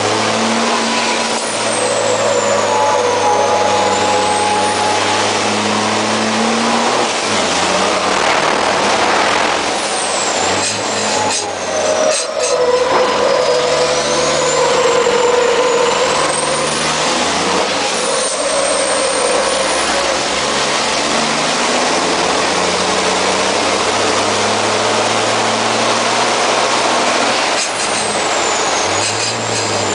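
MAN race truck's diesel engine running hard under load, heard from inside the cab, its pitch dropping in steps at gear changes a few times, with a few sharp clicks around the shifts. A high whistle glides down and back up over the engine sound.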